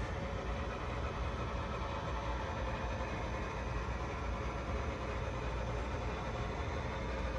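HO scale model train running on the layout: a steady mechanical hum and rumble, engine-like, with no distinct beats or breaks.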